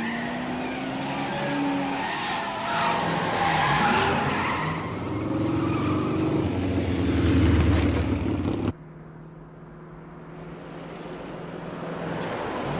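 Car chase sound effects: engines revving with tyre squeals, building to a loud low rumble. The rumble cuts off abruptly about two-thirds of the way in, replaced by a quieter steady engine hum that grows louder again near the end.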